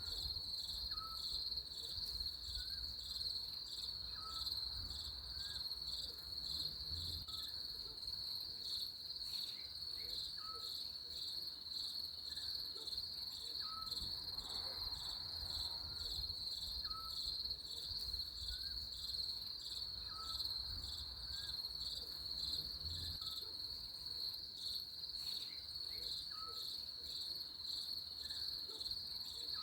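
Steady, high-pitched trilling of insects in a nature ambience, with a short, faint chirp repeating about every second and a half lower down.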